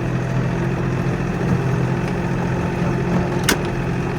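Kioti NX4510 compact tractor's diesel engine running at a steady speed, with one sharp click about three and a half seconds in.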